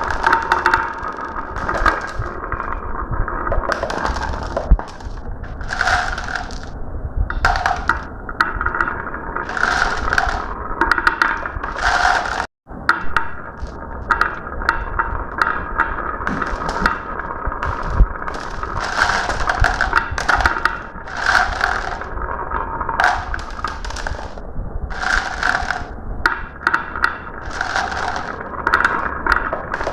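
Marbles rolling and rattling down a marble run track, with frequent sharp clicks and clacks as they strike the track and one another. The sound cuts out for an instant near the middle.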